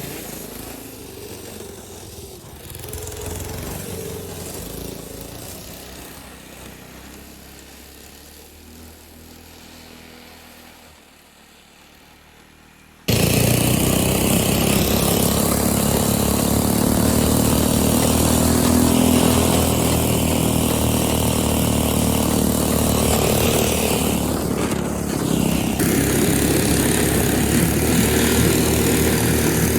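Small Tecumseh H35 single-cylinder four-stroke engine running on a snowmobile. It grows steadily fainter, then about 13 seconds in an abrupt cut brings it in loud and close, running steadily.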